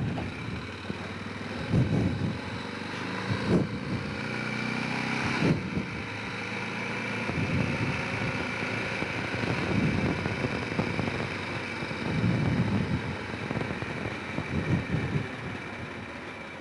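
Honda Rincon 650 ATV's single-cylinder engine running while the quad is ridden, its pitch rising briefly a few seconds in, with a few sharp thumps.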